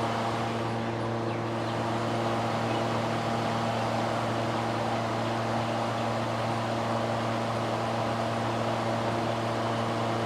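Steady mechanical hum: a low drone with several fainter steady tones above it, unchanging throughout.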